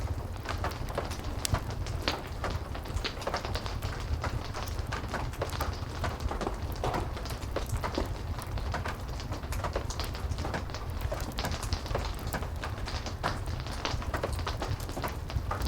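Steady heavy rain with a low rumble, mixed with frequent short crackles and pops from a wood fire.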